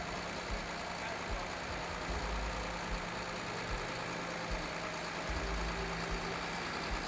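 A motor vehicle engine running steadily at idle, a low even hum, amid traffic noise, with irregular low rumbles coming and going.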